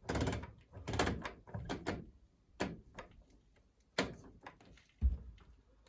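Knocks and clunks from the Hoover Ecologic D6722 tumble dryer's cabinet being handled and checked over, about half a dozen irregular knocks with a low thud near the end.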